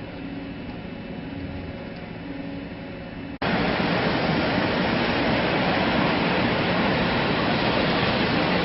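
Industrial machinery running with a steady hum made of several even tones. About three seconds in, it cuts abruptly to a much louder, steady rushing noise.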